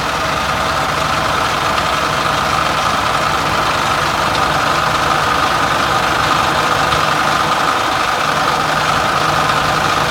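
Caterpillar diesel engine of a 2000 Sterling dump truck idling steadily.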